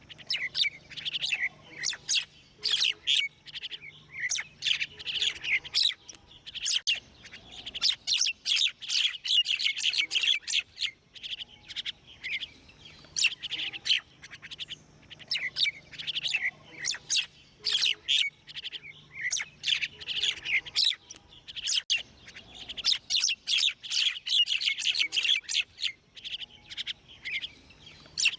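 Small birds chirping and tweeting, a dense stream of quick, high, short calls in clusters with brief pauses.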